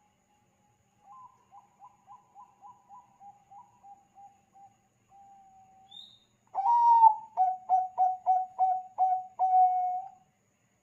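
Bangkok zebra dove (perkutut) cooing its staccato song. A faint run of quick coos ending in a held note comes first, then a much louder phrase: a strong opening note, a rapid string of about seven coos and a drawn-out final coo.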